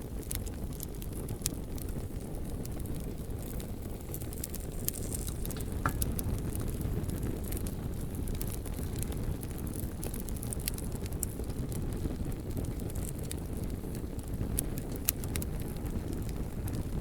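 Wood campfire crackling, with irregular sharp pops and snaps scattered throughout over a steady low rumble.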